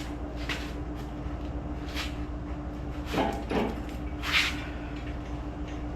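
A few short metal scrapes and clunks as a bolt is worked into place by hand on a small-block Chevy 350 V8, over a steady low hum.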